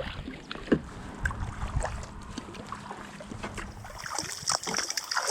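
Kayak paddle strokes: the blades of a composite paddle dipping into the creek, with drips and small splashes running off them. A steady high hiss comes in near the end.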